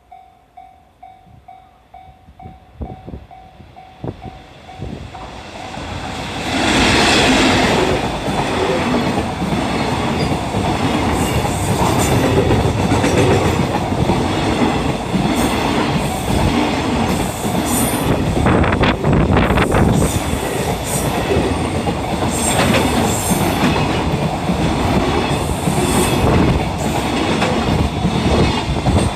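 A freight train passing through a station without stopping. The locomotive arrives with a loud rush about six to seven seconds in, then a long string of wagons clatters past with a steady clickety-clack of wheels over the rail joints. At the start, as the train approaches, a repeating tone pulses about twice a second.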